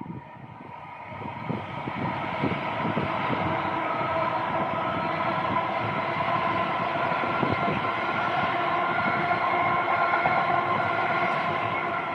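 A train passing close by: its running noise builds over the first two seconds, holds steady with a whine of several tones, and begins to fade near the end.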